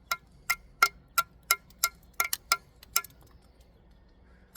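A steel bricklayer's trowel tapping a brick down into its mortar bed, about ten sharp ringing taps at roughly three a second, stopping about three seconds in.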